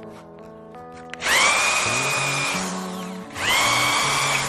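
A handheld power tool run twice, each time spinning up quickly to a steady high whine, for about a second and a half and then about a second. Background music plays underneath.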